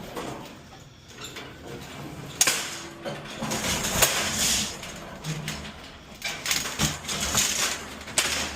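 Empty delivery containers being handled and stacked in a truck's cargo box: scattered knocks and short scraping, sliding noises, with two sharp knocks in the first half.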